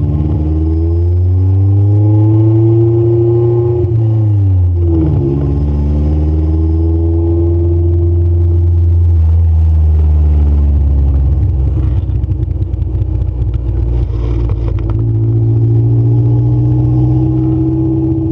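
Honda Civic EF sedan's four-cylinder engine heard from inside the cabin while driving. The revs climb, drop sharply about four and a half seconds in at a gear change, then pull again. They ease off around ten seconds in and rise once more near the end.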